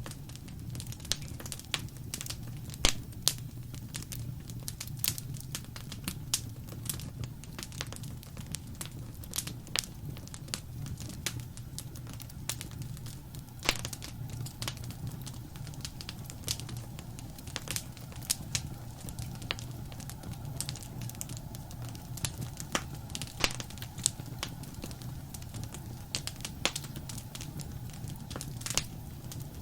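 Wood fire crackling: irregular sharp snaps and pops, a few louder than the rest, over a steady low rumble of burning.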